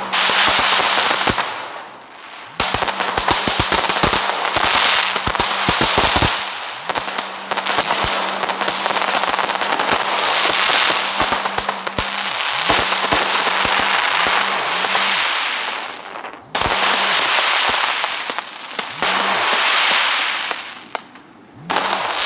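Diwali fireworks and firecrackers going off: several-second spells of dense crackling hiss full of sharp pops, which break off briefly a few times and start again.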